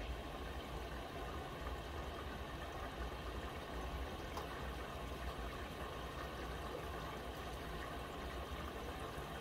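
Miele W1 front-loading washing machine taking in water early in the wash cycle: a steady rush of water flowing into the drum.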